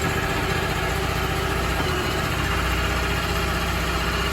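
Crawfish boat's engine running steadily as the boat moves through the pond.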